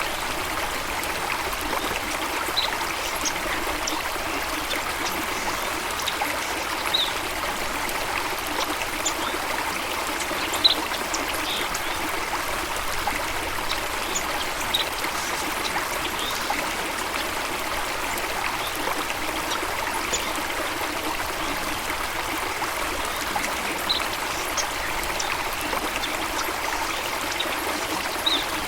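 Running water of a stream, a steady even rush and trickle, with scattered brief high-pitched blips over it and one short louder splash-like tick about ten seconds in.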